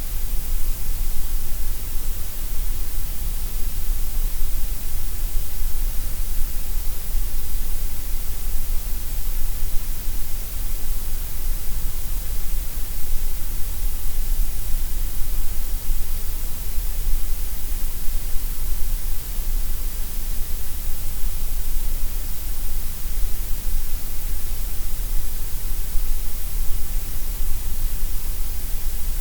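Gray noise: a steady, unchanging hiss spread across all pitches, weighted so that the lowest and highest are strongest.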